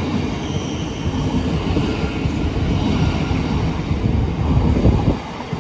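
A train moving on the tracks, heard as a steady low rumble that dips briefly about five seconds in.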